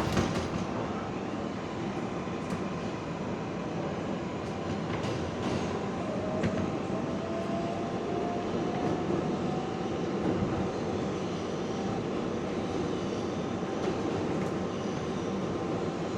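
R142A subway car running through the tunnel between stations: a steady rumble of wheels on rail with scattered sharp clicks. A thin whine rises in pitch about six seconds in.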